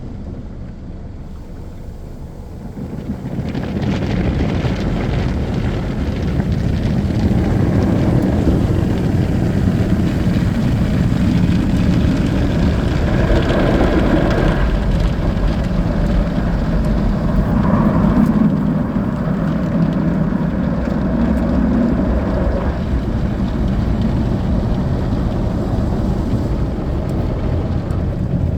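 Automatic car wash working over the car, heard from inside the cabin: a loud, steady rush of spraying water and machinery that swells about three seconds in.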